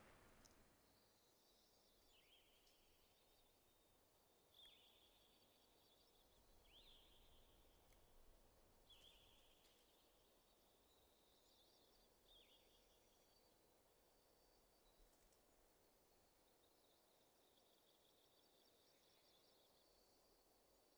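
Very faint nature ambience: a bird giving short high chirping calls, each falling in pitch, about every two seconds through the first half, over a steady faint high buzz.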